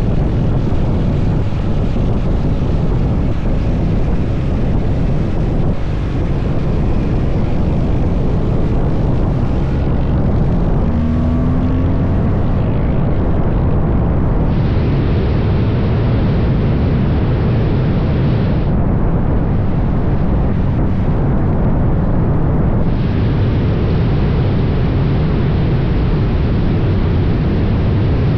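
Motorcycle riding at steady road speed: engine and wind rush on the microphone blend into one loud, even noise, heaviest in the low end.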